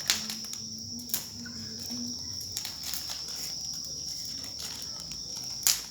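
Crickets trilling steadily on one high note, with a few sharp clicks or knocks, the loudest near the end, and a faint low voice in the first two seconds.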